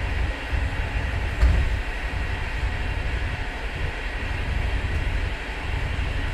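Running noise of a moving passenger train heard from inside the coach: a steady low rumble of wheels on the track, with one louder knock about a second and a half in.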